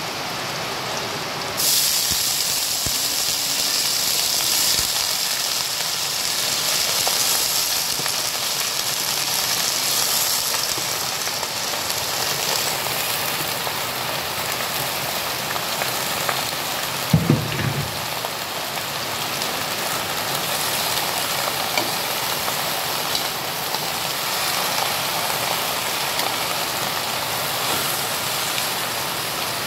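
Food frying in a wok: onion and garlic, then alugbati (Malabar spinach) leaves, sizzling steadily in hot oil. The sizzle gets suddenly louder about two seconds in. A brief low knock comes a little past halfway.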